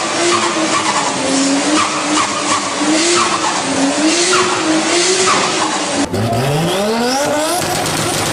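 Car engine running hard with a wavering note over a dense crackle and hiss. About six seconds in it cuts to another car whose engine revs up, the pitch climbing steadily.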